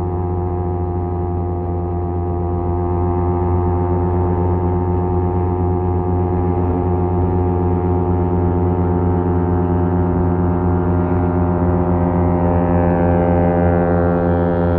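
Kawasaki Z250 parallel-twin engine running through an aftermarket SeaPro exhaust muffler at a steady cruise, a constant-pitched exhaust drone. The revs rise slightly near the end.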